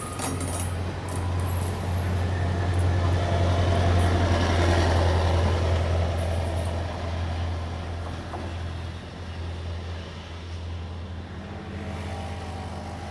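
Sri Lankan diesel train passing: a steady low engine drone with wheel and running noise that swells to its loudest about four to five seconds in, then slowly fades.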